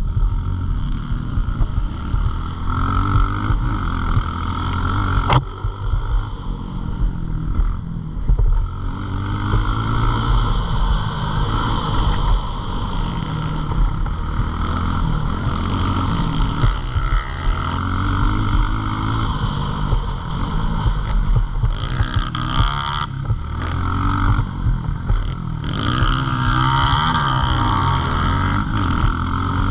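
Pit bike's small single-cylinder engine running while ridden, its pitch rising and falling again and again as the throttle is opened and closed. A single sharp click about five seconds in.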